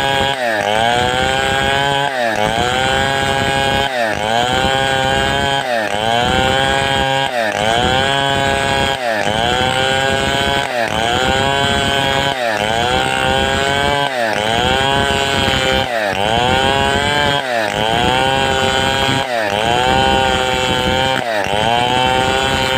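Large 070-type two-stroke chainsaw cutting at full throttle, its engine pitch dipping as the chain bites into the wood and climbing back again in a steady rhythm of about one cut stroke every second and a half to two seconds.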